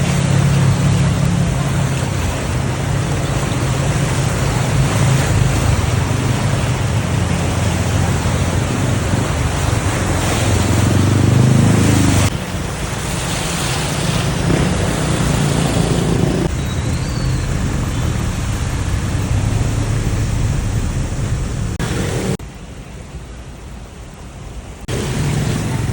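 Heavy rain pouring steadily, with a low engine hum from vehicles in the street and wind on the microphone. The sound changes suddenly a few times, dropping quieter for a couple of seconds near the end.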